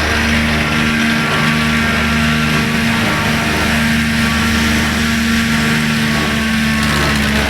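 Tractor engine running steadily at an even pitch, driving the PZ MH320 S maize chopper, with a few low tones that come and go.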